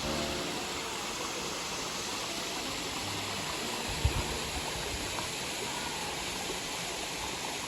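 Running water, a steady rush like a small waterfall or stream feeding a pond, with a brief low thump about four seconds in.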